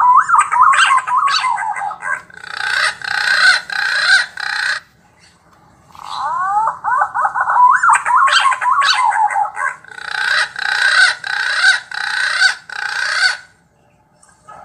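Recorded bird call played through a bird-caller speaker: a phrase of quick rising whistled sweeps followed by a run of harsh, rapidly repeated notes, heard twice with a short pause between, as a looped call.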